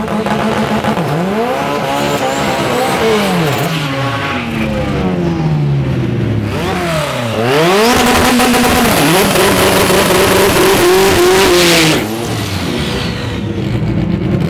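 Turbocharged drag car revving hard in repeated rising and falling sweeps, then doing a loud tyre-spinning burnout for about five seconds, with the tyre noise cutting off suddenly before the engine revs again.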